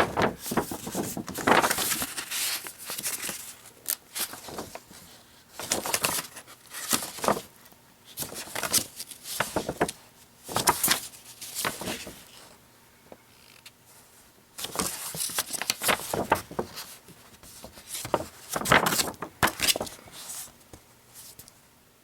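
Paper brochure pages being handled and turned, with irregular rustles and flaps every second or two and short pauses between.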